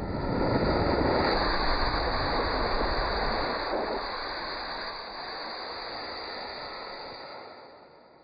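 Rocket engine firing in a static test: a loud, steady rushing roar, strongest for the first few seconds, then easing and fading out near the end.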